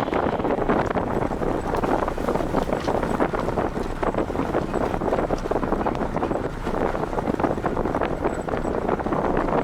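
Wind buffeting the microphone of a camera on a moving vehicle, over steady engine and road noise.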